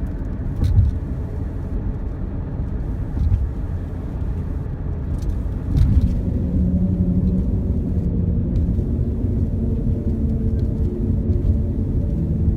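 A car driving at road speed, heard from inside: a steady low road and wind rumble with a few dull thumps, and a steady low hum setting in about six seconds in.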